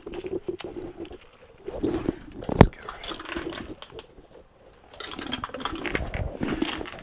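Metal tools and engine parts being handled: scattered clinks and rattles, with one sharp knock about two and a half seconds in and a busier stretch of clatter near the end.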